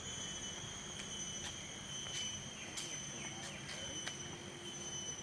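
Insects shrilling in a steady, unbroken high drone, with a few faint ticks.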